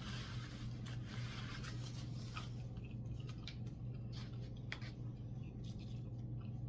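A person chewing and eating chicken and noodles: irregular wet mouth clicks and smacks, over a steady low hum.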